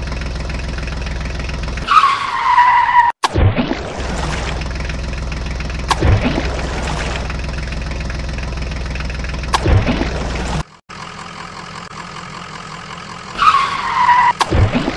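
Dubbed-in vehicle engine sound effects: a steady idling engine hum with a short falling squeal twice and a few brief revs. There is an abrupt cut about 11 seconds in to a quieter engine sound.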